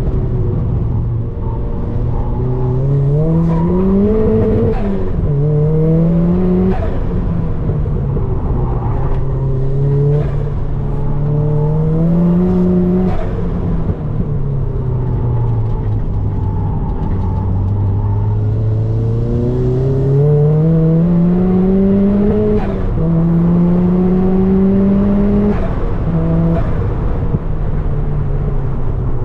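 Turbocharged Mazda MX-5's four-cylinder engine driven hard. The revs climb steadily and then drop back about five times, as it accelerates, shifts or lifts, and pulls again.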